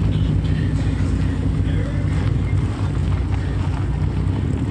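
A car engine running steadily at low revs, a loud, deep hum that neither rises nor falls.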